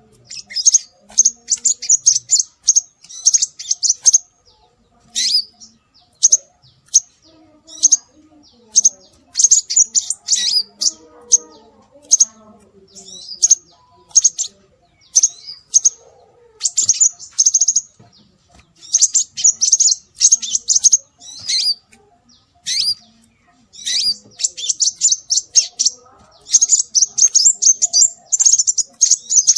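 Scarlet minivet (sepah raja) calling: repeated bursts of rapid, high chirping trills, each lasting about half a second to two seconds, separated by short gaps.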